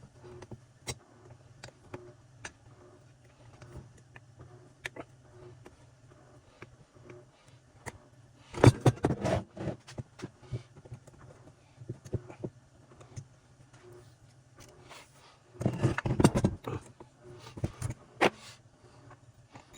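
Small metal tools and saw parts clinking and clattering on a workbench as a two-stroke concrete saw's piston is being readied for removal, with scattered light clicks and two louder bursts of rattling, about nine and sixteen seconds in.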